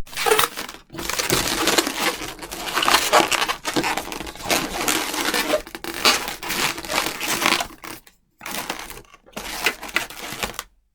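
Latex modelling balloons (260Q) rubbing and squeaking against each other and against hands as they are twisted and handled, a rough crinkling sound that breaks off briefly about 8 seconds in and stops just before the end.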